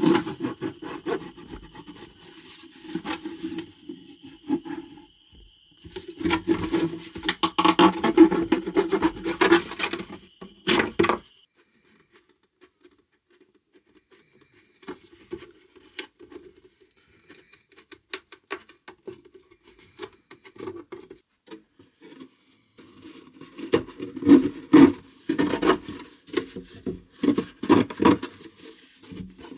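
Rubbing and scraping in bursts, a plastic container being cut and worked by hand. It is loud for the first ten seconds or so, faint in the middle, and loud again near the end, with a thin steady high tone through the first part.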